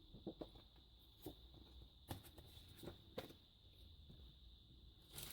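Faint scattered taps and light rustles of paper cards being handled on a table, about half a dozen soft clicks spread through the quiet, with a faint steady high whine underneath.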